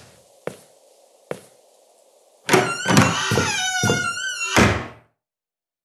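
Two footsteps on a hard floor. Then, about two and a half seconds in, a front door opens: several heavy clunks from the latch and the door, with a wavering creak through them, cutting off suddenly.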